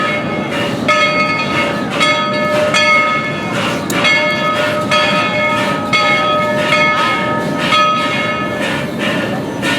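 Baldwin steam locomotive #190's bell ringing, struck about once a second, over the steady rushing noise of the locomotive as it pulls out.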